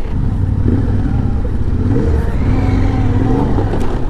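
Yamaha Ténéré 700's parallel-twin engine running under way, its pitch rising and falling with the throttle, over a steady low rumble of riding.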